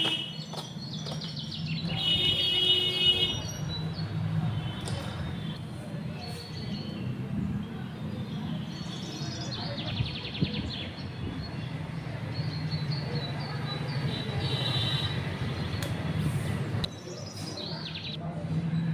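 Birds chirping in short, quick trills every few seconds over a steady low hum.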